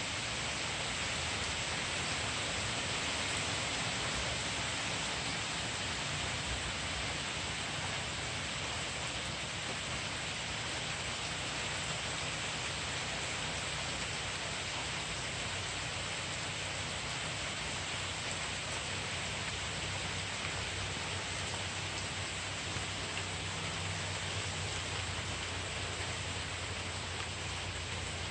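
Heavy rain pouring steadily in a storm, an even, unbroken hiss of downpour.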